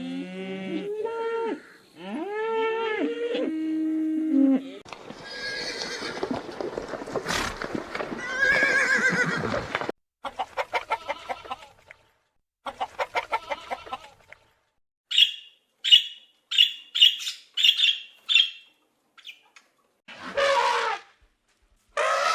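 A series of different animal calls one after another. Pitched calls with many overtones come first, then a long rough call, then quick pulsed calls, then short sharp high chirps, and two loud broad calls near the end.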